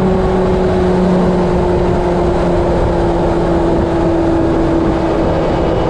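Steady engine drone over a rush of wind noise, its pitch sinking slightly.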